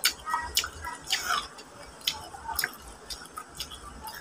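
Close-up wet chewing and lip-smacking while eating boiled mud crab, a string of sharp, moist clicks coming irregularly about twice a second.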